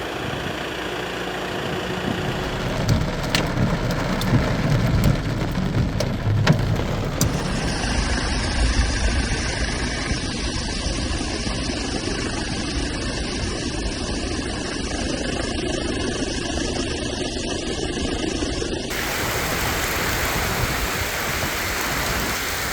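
Steady rushing noise of heavy rain and floodwater, with a low rumble and a few sharp clicks in the first part. The sound changes abruptly about eight and nineteen seconds in.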